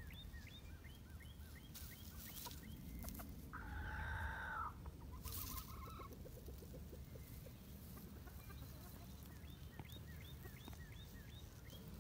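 Faint bird calls: runs of short chirps at about three a second near the start and again in the second half, and one longer held call about four seconds in.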